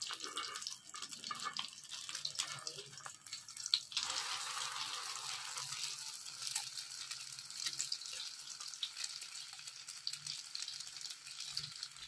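Egg-coated shami kebabs frying in hot oil: a crackling sizzle, patchy at first, that becomes dense and steady about four seconds in.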